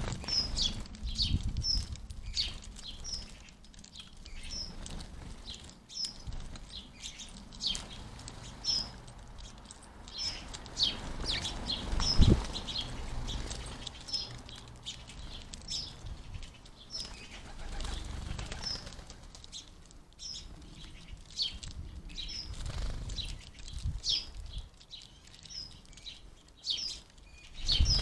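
House sparrows chirping over and over in short high notes, with wings fluttering and low thumps as birds come and go at the feeder; the loudest flutter comes about twelve seconds in.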